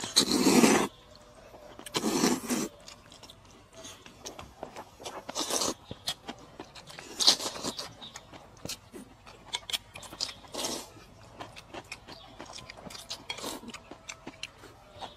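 Close-up eating sounds: a person chewing and smacking on food in many short, irregular clicks, with a louder burst right at the start and another about two seconds in.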